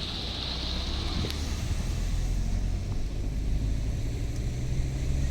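Vehicle running in road traffic: a steady low rumble of engine and road noise, with a hiss that fades out within the first two seconds.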